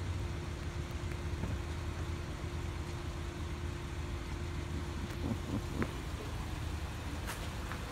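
Steady low rumble of a car engine idling, with a thin steady hum that stops about five seconds in.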